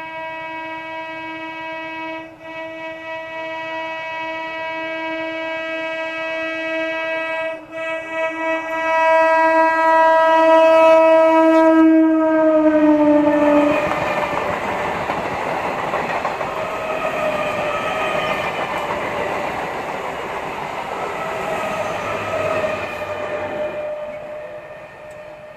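Indian EMU local train's horn held in one long blast as the train approaches at speed, its pitch dropping as the train passes, followed by the rush and clatter of the coaches going by, fading near the end.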